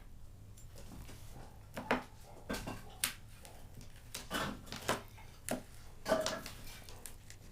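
Irregular knocks and clicks of hands handling meat and kitchen items on a work surface, about seven in all at uneven spacing.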